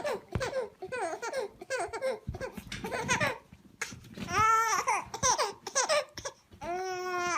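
A person laughing in a high voice: quick repeated bursts of laughter, louder after a short pause about halfway, ending on a longer drawn-out note.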